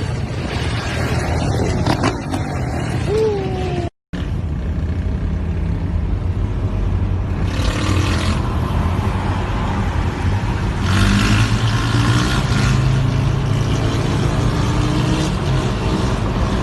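Motor vehicle engines running at speed, with rushing air noise. The sound drops out for a moment about four seconds in, and engine pitch climbs in the second half.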